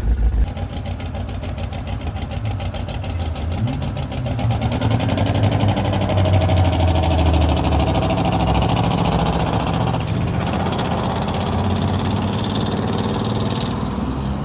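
Twin-turbocharged limousine engine running as the car drives, its pitch rising from about four seconds in as it picks up speed, with a brief change around ten seconds in.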